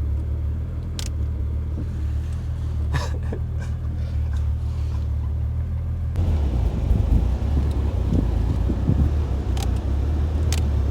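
Toyota Supra's engine running with a steady low hum, with a few light clicks. About six seconds in, a louder, rougher rumble joins the hum.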